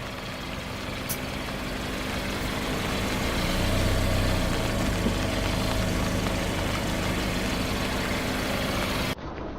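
Car engine running at low speed, growing louder over the first few seconds and then holding steady, with one sharp crack about a second in. Near the end the sound cuts abruptly to another take, where the engine is still running.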